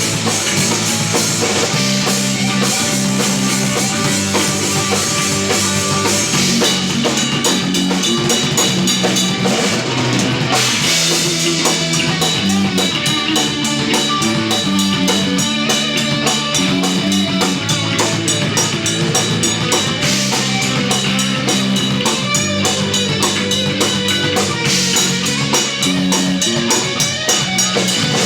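Live instrumental progressive/post-rock played by a trio of electric bass, electric guitar and drum kit, with the bass stepping through sustained notes under a steady drum beat. The cymbals grow busier about six seconds in.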